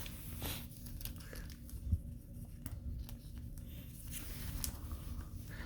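Faint handling of hockey trading cards: light clicks and rustles of card stock, with a soft knock about two seconds in.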